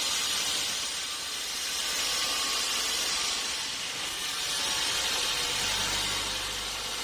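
Sawmill machinery running: a steady hiss, joined by a low engine hum about five and a half seconds in.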